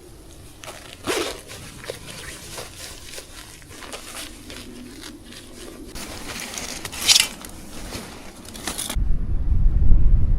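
Irregular crunching, scraping and rustling of someone working in snow, with a sharp noise about a second in and a louder one about seven seconds in. Near the end a gust of wind buffets the microphone with a low rumble.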